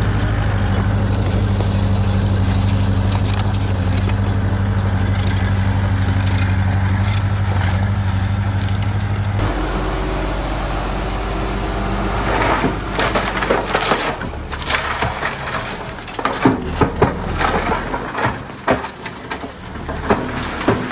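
Diesel engine of heavy earthmoving machinery running steadily, its note shifting about nine seconds in. From about twelve seconds the engine drops away and irregular clanks and knocks take over, the sound of metal and soil or debris being worked.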